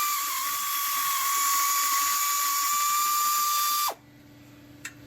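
Husky pneumatic air ratchet running on 90 psi air, a steady high whine as it spins a fastener off the exhaust. It cuts off about four seconds in.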